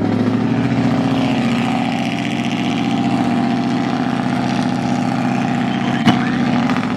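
Dodge SRT Hellcat's supercharged V8 idling at close range, a steady loud low rumble. There is a single sharp click about six seconds in.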